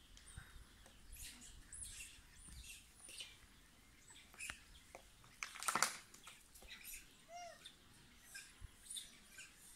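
Birds chirping and calling, many short high chirps with a few arching calls, and one louder, longer noise about six seconds in.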